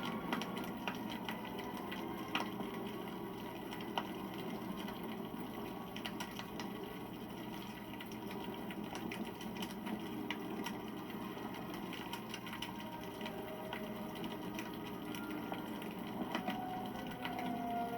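Wood campfire burning: a steady rush of flames with frequent small crackles and pops, and a faint whistling tone near the end.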